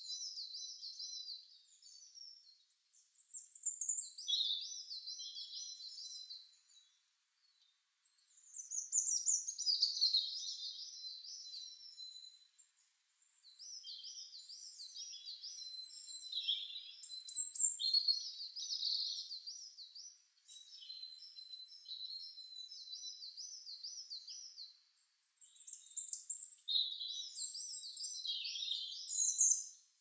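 Songbirds singing in a string of high phrases, each a few seconds long with short pauses between, built of quick repeated notes.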